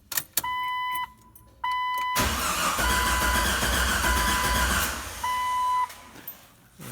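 1997 Jeep Wrangler's 4.0-litre straight-six cranking over on the starter for about three seconds without firing, while a dashboard warning chime beeps repeatedly before, during and after. The engine cranks but does not catch; the owner thinks it has fuel and spark and suspects a failed crankshaft position sensor.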